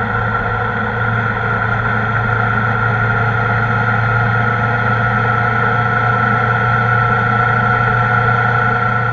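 Kawasaki ZR-7S motorcycle's inline-four engine running at a steady speed while riding, heard on the onboard microphone, with a constant pitch and no revving.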